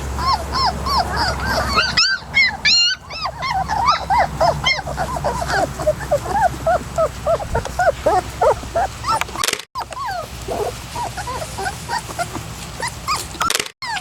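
A litter of three-and-a-half-week-old puppies whimpering and yipping, with many short high cries overlapping one another.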